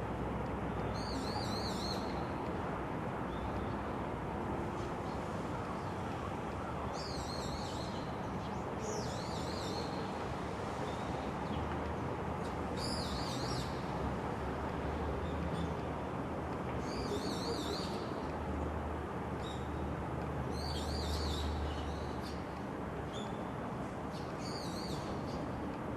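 A songbird singing short, high, warbling phrases, about seven of them a few seconds apart, over a steady rushing background noise.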